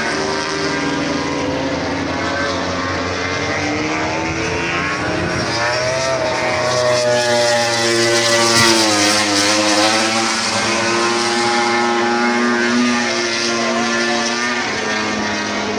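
Several engines running together, their pitches held steady for long stretches, with a dip and rise in pitch around the middle.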